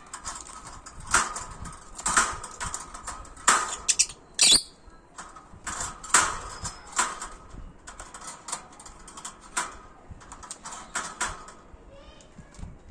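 Wire birdcage rattling and clicking in irregular strikes as pet birds work at the cage door, trying to open it.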